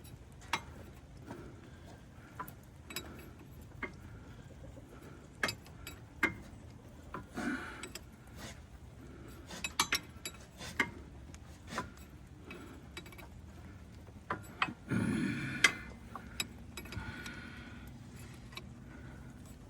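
Scattered metal clinks and taps of wrenches on a tractor's hydraulic line fitting as it is tightened, with a short louder noisy burst about fifteen seconds in.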